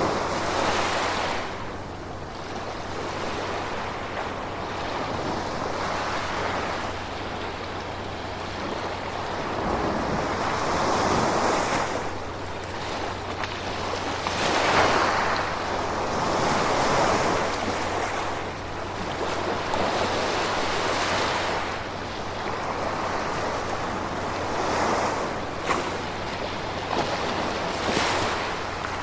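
Gentle ocean waves washing onto a shore, swelling and ebbing every few seconds in a continuous hiss of surf.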